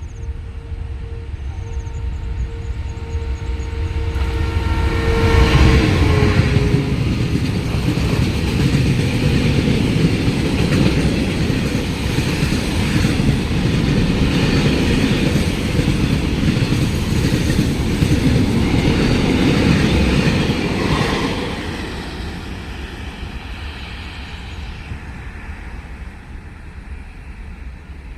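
CSR5105 diesel-electric locomotive hauling a freight train past at speed: its horn sounds one long steady blast as it approaches, dropping in pitch as it passes about six seconds in. Then the locomotive and the freight wagons rumble and clatter by for some fifteen seconds before the sound fades away.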